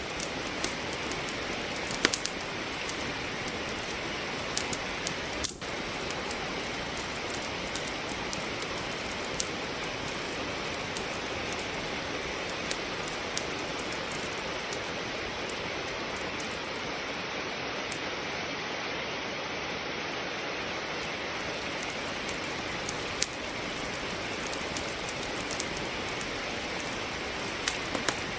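Steady rain hiss overlaid with scattered sharp pops and crackles of firewood burning in a fireplace.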